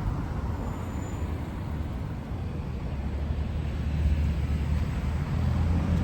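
Street traffic noise, with a motor vehicle's engine running close by: a low hum that grows louder about halfway through.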